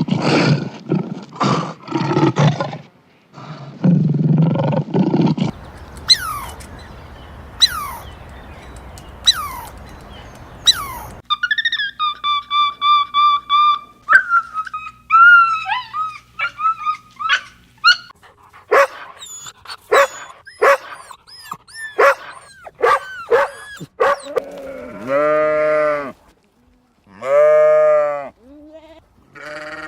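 A string of different animal calls edited back to back: low, pulsed calls for the first few seconds, then quick high chirps, a held whistling call with a slow wobble, a flurry of short calls, and two long rising-and-falling calls near the end.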